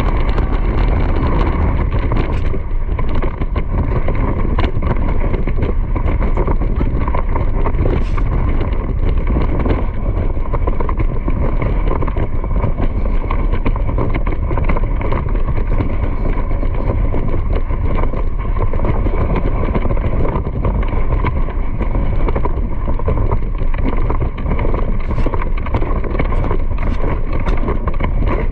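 Loud, steady wind rumble on the microphone, mixed with frequent small knocks and rattles, as from a camera on the move.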